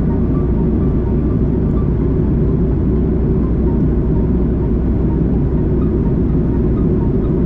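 Steady in-flight cabin noise of a Boeing 737-800 airliner: a deep, even rumble of airflow and engines with no change in level.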